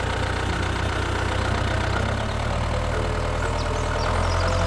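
Mini tractor's small engine running steadily at idle-like speed, a steady low hum that shifts slightly about two seconds in and grows a little louder near the end.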